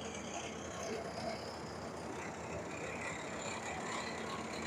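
Rice combine harvester's diesel engine running steadily, a low hum under a continuous rushing mechanical noise.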